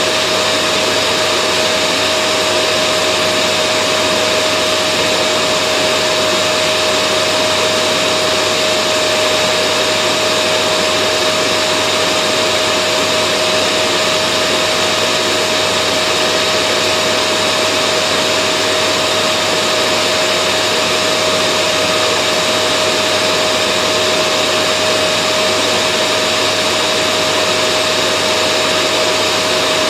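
Vacuum cleaner running at a constant speed: a steady rush of air with a held motor whine, unchanging in level.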